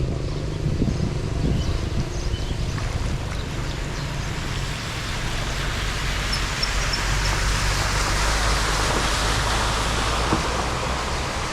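Water rushing, swelling louder through the second half and easing near the end, over a steady low rumble.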